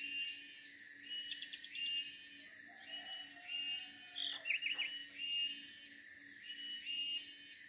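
Siberian blue robin singing: repeated thin high notes sweeping upward alternate with short flat whistles. A quick rattling trill comes about a second in and another near the middle.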